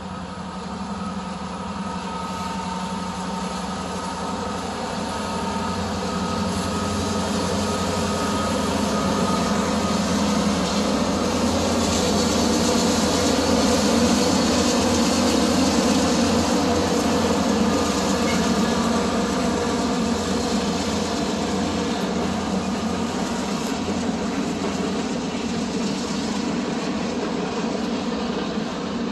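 CPKC train rolling past, a steady rumble of rolling stock that grows louder to a peak about halfway through and then slowly eases.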